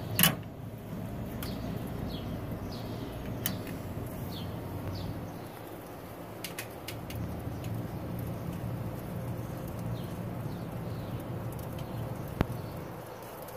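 Small birds chirping in scattered short, falling notes over a low steady hum, with a few sharp clicks, the loudest right at the start.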